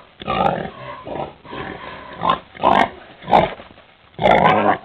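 Domestic pig grunting, a run of short oinks with the longest and loudest call near the end.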